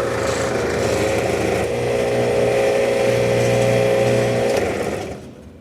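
Old Hotsy hot-water pressure washer's motor and pump running steadily, then shut off and winding down near the end. The pump side works, but the oil burner for the hot water does not light.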